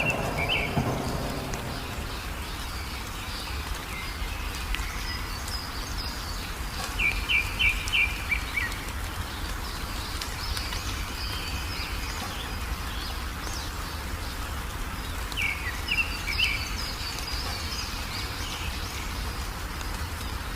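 Small wild songbirds chirping in short runs of quick notes, three times, over a steady hiss of rain, with the tail of a thunder rumble fading away at the start.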